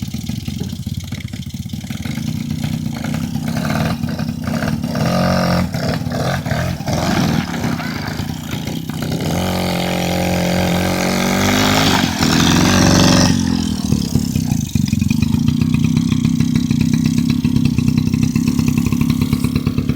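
Quad bike (ATV) engine running, revving up to a higher pitch from about nine seconds in and dropping back about four seconds later, then running steadily again.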